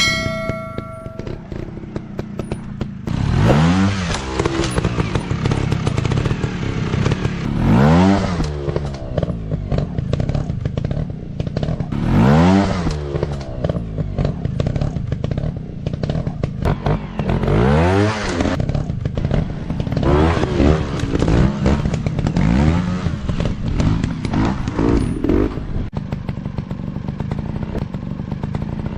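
Dirt-bike engine revving up and falling back over and over, a burst every few seconds, between stretches of lower running, with some clattering.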